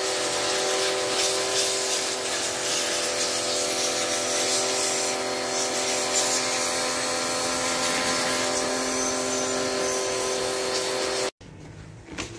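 Pressure washer spraying a motorcycle: a steady motor hum under a loud hiss of water. It cuts off suddenly about eleven seconds in.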